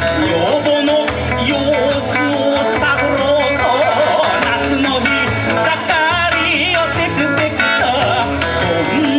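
Kawachi ondo, a Japanese bon-dance folk song, played live, with a wavering sung or played melody over a steady, repeating low beat.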